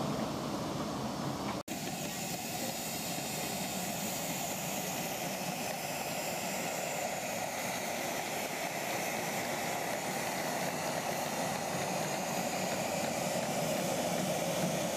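Miniature railway locomotive giving off a steady hiss and running noise, broken by a sudden dropout about one and a half seconds in.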